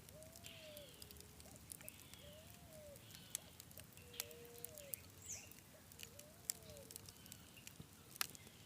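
Campfire crackling: irregular sharp pops and ticks from the burning wood, a few louder snaps among them. Behind it a soft, arching whistle-like tone repeats about every two seconds.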